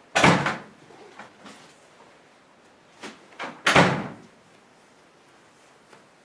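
A door banging shut twice, about three and a half seconds apart, with lighter knocks and clicks between the bangs.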